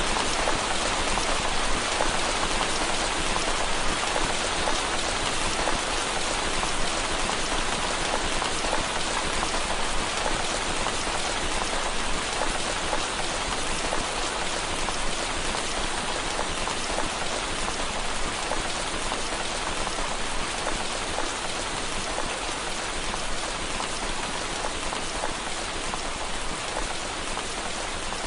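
Steady rain falling on window glass: a dense, even wash of small drop hits that eases off slightly toward the end.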